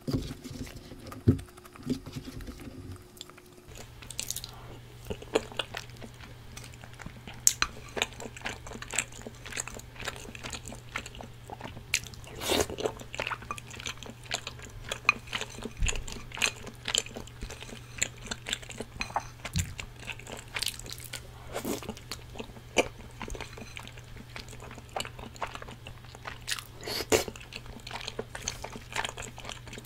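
Close-miked chewing and mouth sounds of someone eating cheese tteokbokki, with irregular sharp clicks from the chopsticks and spoon against the bowl. A low steady hum runs underneath from about four seconds in.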